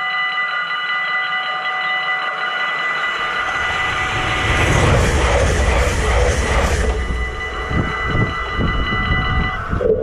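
Dutch level crossing warning bells ringing rapidly and steadily while a train passes. The train comes in about three seconds in with a rising rush and rumble that is loudest near the middle, followed by a run of wheel clacks over the rail joints. The bells stop just before the end.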